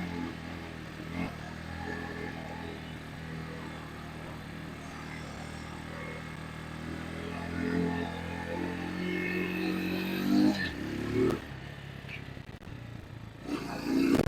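Vitacci GTT250's 229cc air-cooled single-cylinder four-stroke engine running steadily, rising a little twice, then stopping abruptly about ten and a half seconds in.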